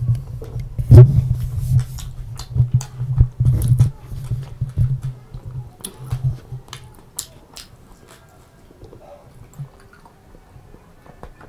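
Close-miked chewing of a mouthful of pizza: wet smacking and chewing with many short, sharp clicks. It is busiest and loudest in the first seconds and thins to a few faint clicks near the end.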